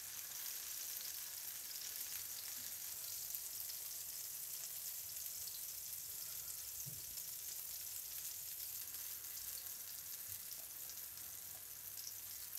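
Tomato slices sizzling as they shallow-fry in cooking oil in a flat pan, a steady fine crackle.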